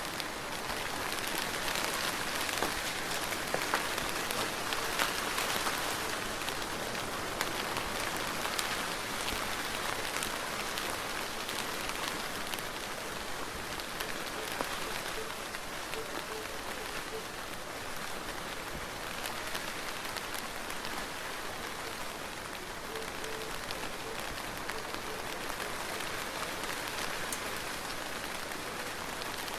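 Steady soft rain with many separate drop ticks. It is a little louder in the first few seconds and then holds even.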